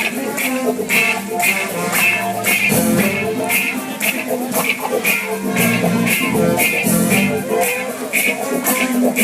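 Instrumental music from a live band, with a steady beat of about two strokes a second and no singing yet.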